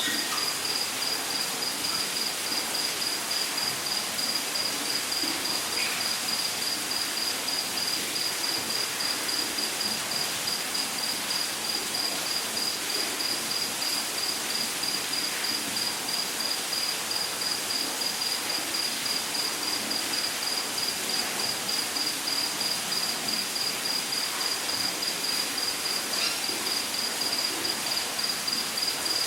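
Rainforest insect, cricket-like, trilling on one high pitch in a fast, even pulse without a break, over a steady hiss of rushing water. A faint short bird call comes about six seconds in and another near the end.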